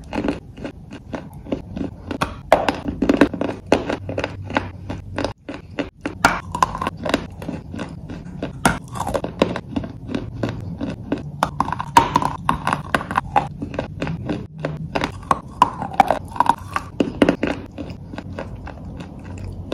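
Close-miked chewing of lumps of gray clay: rapid, irregular gritty crunches, with a brief break about five and a half seconds in.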